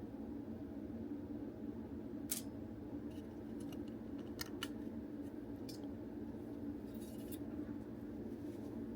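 Scattered short, sharp clicks and ticks of small hard parts of a disassembled toy transformation belt being handled, over a steady low hum.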